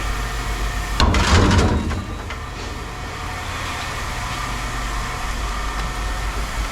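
Steady low engine hum, with one loud clatter of scrap metal being dropped or thrown about a second in, lasting about a second.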